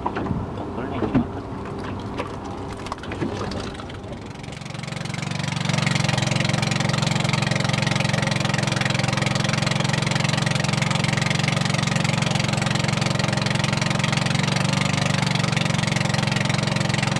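A small fishing boat's engine comes up to a steady run about five seconds in, after a few seconds of scattered knocks and clatter on board.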